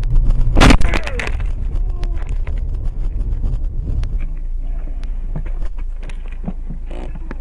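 A car hitting a deer at speed on a snowy road: one loud crash a little under a second in, over the steady low rumble of the moving car.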